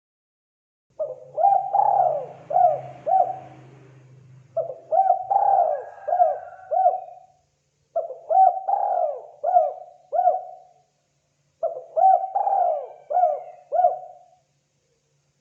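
Spotted dove (terkukur) cooing: four repeated call phrases, each a quick run of about five cooing notes, with a short pause between phrases.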